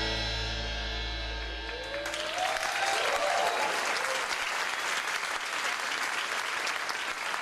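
The song's final chord rings out and fades, then audience applause breaks out about two seconds in, with a brief rising cheer from the crowd.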